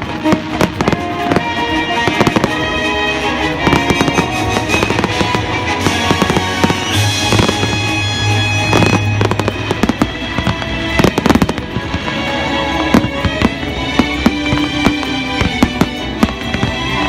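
Fireworks display, shells bursting in many sharp, irregular bangs and crackles, over music.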